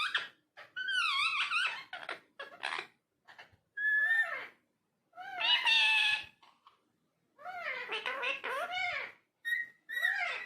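Ringneck parakeet talking: a string of short, high, pitch-bending mimicked phrases and chatter with brief pauses between them.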